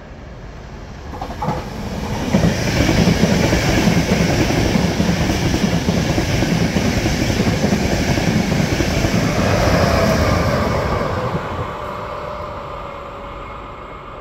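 Trenitalia Intercity passenger train passing on the rails. The noise of its wheels swells about two seconds in and stays loud while the coaches go by, then fades away from about eleven seconds as the train recedes.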